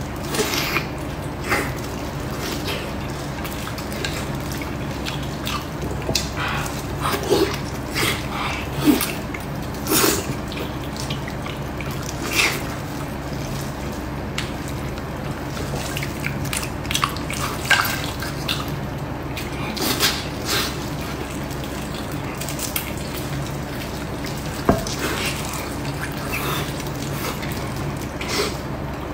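Close-up wet chewing and lip-smacking of someone eating braised pork knuckle: irregular sticky smacks and squelches, with the meat pulled apart by hand, over a steady low hum.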